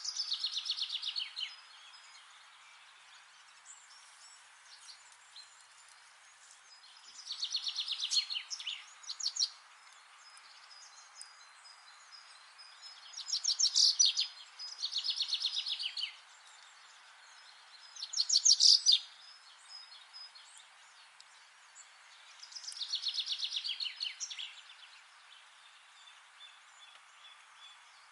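A songbird singing six short trilled phrases, each a rapid run of notes lasting a second or two, a few seconds apart. A steady hiss runs underneath.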